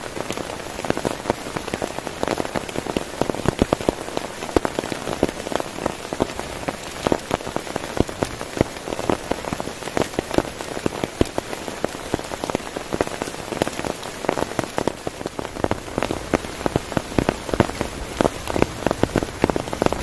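Heavy rain pattering steadily on a tent, with dense, sharp drop impacts over a constant hiss.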